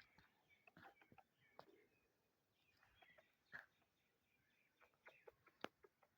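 Near silence with faint scattered clicks and taps.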